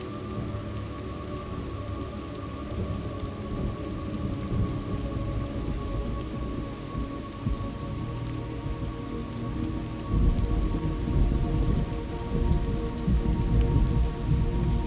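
Thunderstorm ambience: steady rain falling on surfaces, with thunder rumbling low underneath and swelling into a louder, heavier roll about ten seconds in.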